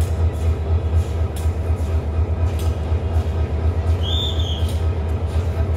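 Passenger train running past with a steady heavy rumble and occasional clacks of wheels over the rail joints. A brief high squeal sounds about four seconds in.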